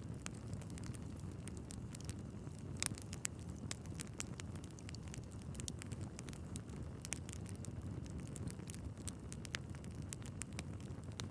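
Wood fire burning in a fireplace: logs crackling and popping irregularly over a steady low rumble of the flames, with a few sharper pops.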